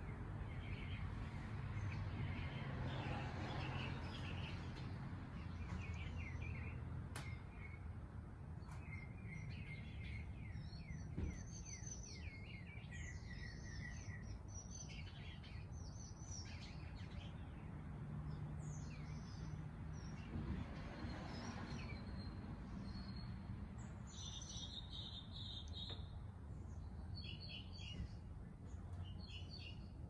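Songbirds chirping and calling in strings of short calls, busiest from about ten to sixteen seconds in and again near the end, over a low steady hum.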